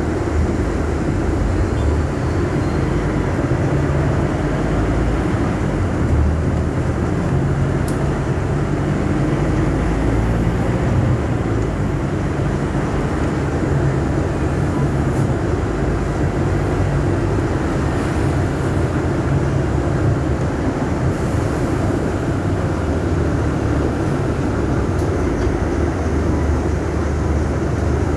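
Scania K250UB city bus running: a steady low engine drone and ride rumble, with the engine note rising and falling as it drives.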